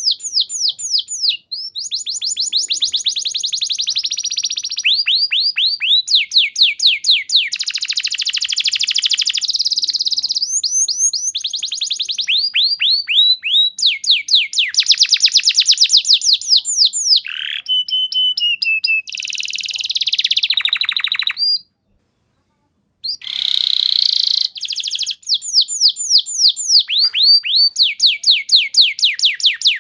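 Domestic canary singing a long, continuous song of rapid trills, each made of fast repeated downward-sweeping notes, the trill pattern changing every second or two. The song breaks off for about a second and a half roughly three-quarters of the way through, then resumes.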